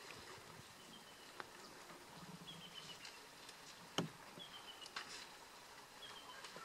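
Faint outdoor ambience: a bird repeats a short, high descending call of a few quick notes every couple of seconds. Scattered sharp clicks, and one louder knock about four seconds in.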